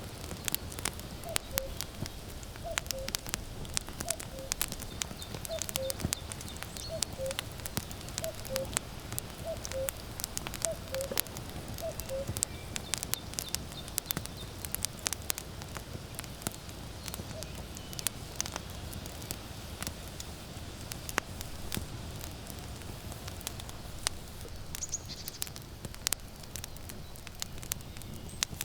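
Wood fire crackling and popping steadily with sharp snaps. Over the first dozen seconds a common cuckoo calls its two-note falling 'cu-ckoo' about nine times, roughly once a second and a bit, then stops.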